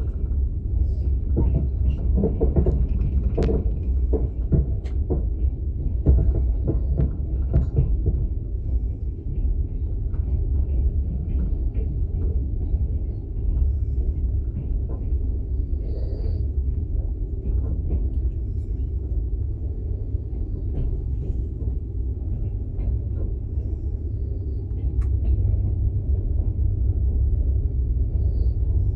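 Moving passenger train heard from inside an open-plan sleeper car: a steady low rumble with scattered light clicks and knocks, busiest in the first several seconds.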